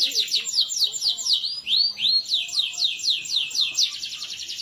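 Domestic canary singing a rapid series of downward-sweeping notes, about eight a second, broken by two arching notes about a second and a half in, then changing to a faster rolling trill near the end.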